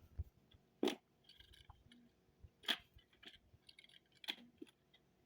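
Small plastic model train cars being handled and set in place: three light knocks, a second or two apart, with small clicks and rustling between them.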